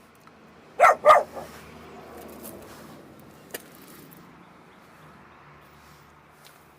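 A dog barks twice in quick succession about a second in, two short sharp barks.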